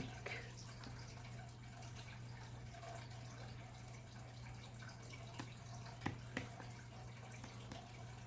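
Faint clicks and light taps of small parts and foam being handled, a few sharper clicks a little past the middle, over a steady low hum.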